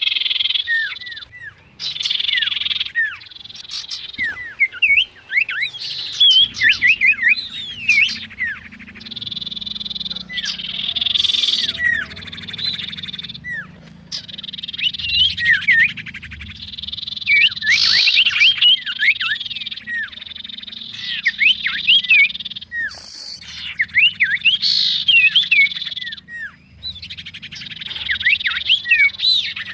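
Common iora (cipoh) calling and chattering: rapid runs of short, sweeping whistled notes broken by stretches of a steady high buzz, repeating in bouts every few seconds.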